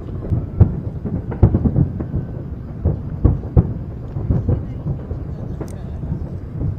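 Fireworks display: an irregular run of booming bangs from shells bursting, over a continuous low rumble.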